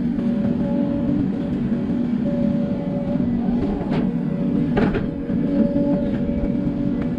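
Hidromek 140LC excavator's diesel engine running steadily under working load, with a couple of sharp knocks about four and five seconds in.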